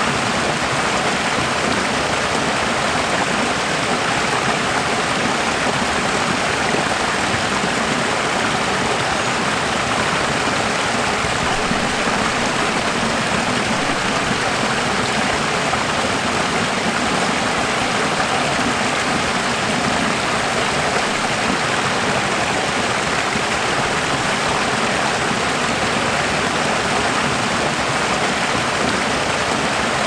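Running water rushing steadily, an even, unchanging hiss like a stream or small cascade.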